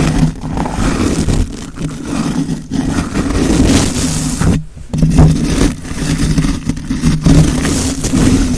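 Close-miked ASMR friction sound: continuous scratching and rubbing right at the microphone, broken by a brief pause about halfway through.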